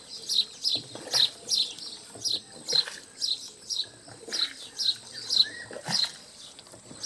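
A small bird chirping over and over, short sharp high chirps at about two a second.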